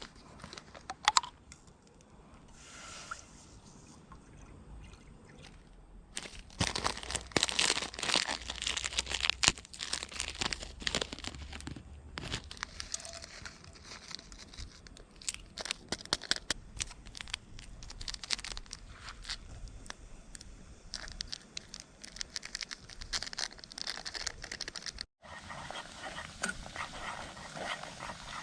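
Crinkling and crackling handling noises during camp cooking, dense and irregular. An abrupt cut near the end switches to a steadier hissing crackle.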